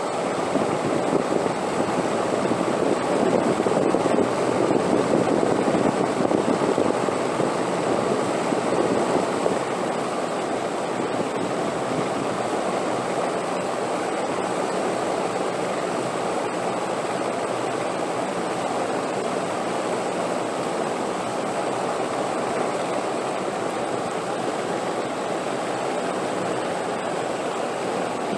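Steady rushing wind, swelling in a stronger gust for several seconds near the start and then settling to an even blow.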